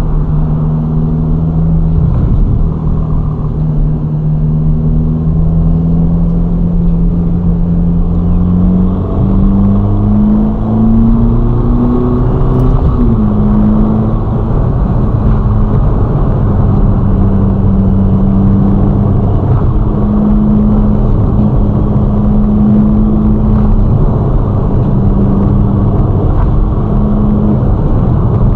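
Ferrari Roma's twin-turbo V8 under way at a steady cruise; about a third of the way in the revs climb for a few seconds, then drop at an upshift and settle to a steady note again, with tyre and road rumble beneath.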